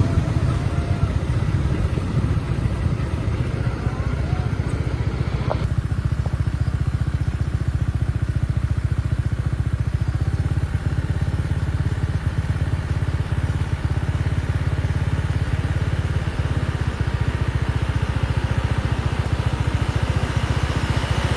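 An engine running steadily, with a fast, even low pulsing.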